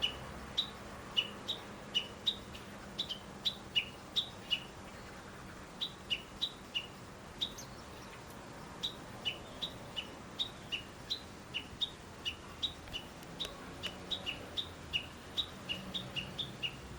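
A small songbird calling a series of short, clear, down-slurred notes that alternate between a higher and a lower pitch, a few notes a second, with brief pauses between runs.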